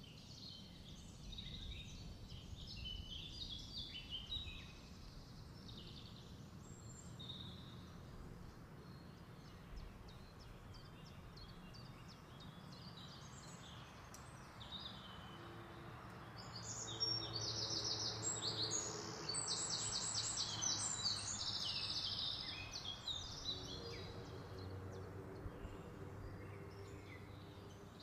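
Small birds chirping and trilling, busiest and loudest about two-thirds of the way through, over a low steady hum.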